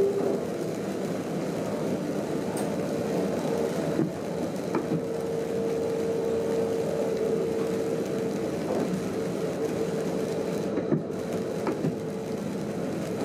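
Steady running noise heard inside a train driver's cab while the train is under way, with a steady mid-pitched hum held through most of it and a few light clicks and knocks.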